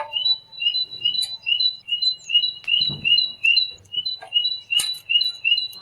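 A tit singing: a quick two-note phrase, high then low, repeated over and over at about three phrases a second.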